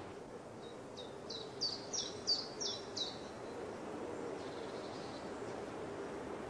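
A small bird singing a quick run of about seven high chirps, each sweeping downward, over about two and a half seconds, then stopping.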